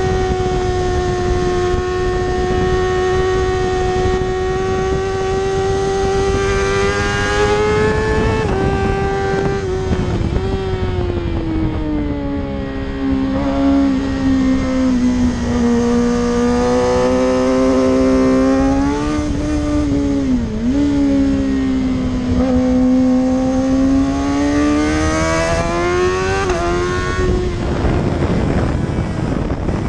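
Racing motorcycle engine held at high revs over a steady rushing noise. Its pitch eases down through the middle, dips briefly about twenty seconds in, and climbs again near the end.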